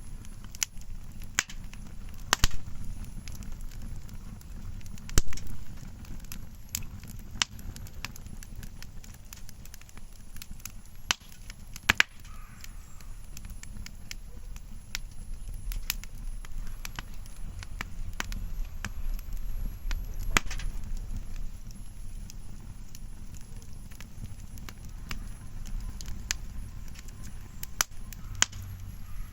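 Wood bonfire crackling, with irregular sharp pops and snaps, the loudest about five seconds in, over a steady low rumble.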